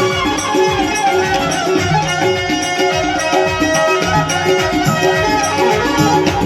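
Indian banjo playing a folk-style melody in held and moving notes, over a steady percussion beat.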